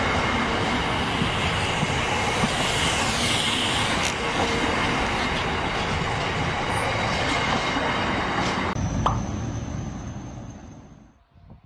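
A train running along the track: a loud, steady rumble and rush with faint high tones over it. About nine seconds in the sound changes abruptly, then fades away over the next two seconds.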